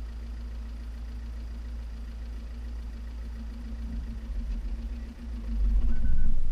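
Lancia Delta's engine running steadily with a low rumble, swelling in loudness about five and a half seconds in.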